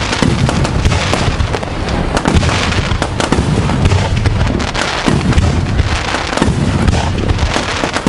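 Aerial fireworks display in a dense, continuous barrage: many shell bursts and crackles overlapping, with a steady low rumble underneath and no break.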